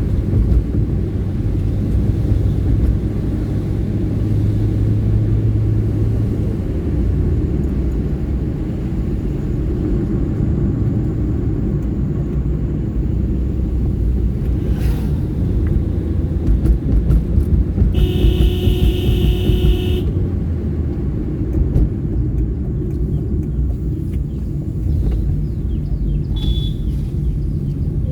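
Hyundai i10 car driving on the road: a steady engine and road rumble, with a horn sounding for about two seconds roughly two-thirds of the way in and a short high beep near the end.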